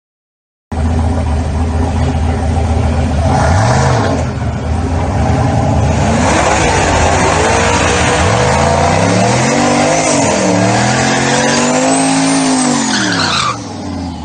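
Turbocharged LS V8 in a Dodge Dakota running hard after a short gap at the start, its pitch climbing and dropping several times as it is revved, with a high whistle rising and falling near the end.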